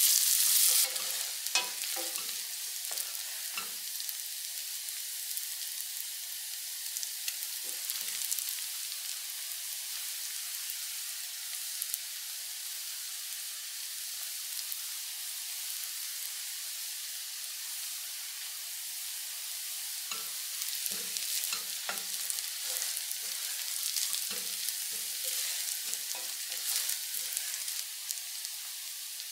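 Chopped shallots, dried red chillies and curry leaves sizzling steadily in hot coconut oil in a stainless steel pan. A wooden spatula stirs and knocks against the pan in the first few seconds and again through much of the last ten seconds.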